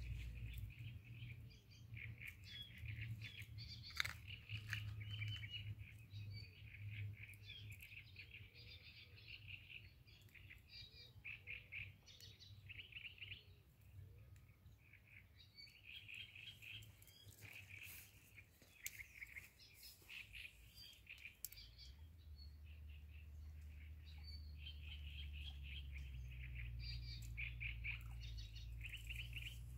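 Songbirds singing in repeated short, chattering bursts of chirps with brief gaps, over a faint low rumble that grows heavier in the last third.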